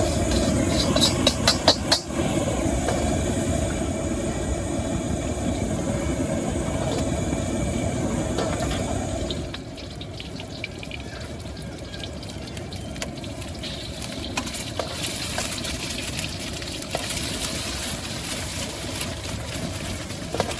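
Wok stir-fry cooking: a gas wok burner running steadily with a few sharp metal clanks of the spatula against the wok about a second in. About nine seconds in the burner noise drops away, leaving quieter sizzling and scattered light clicks.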